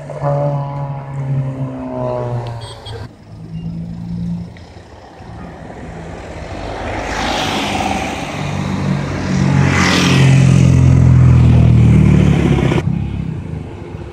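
Honda car engine running through an aftermarket free-flow cat-back exhaust, revved so that the exhaust note swells to its loudest about ten to twelve seconds in, then cuts off suddenly.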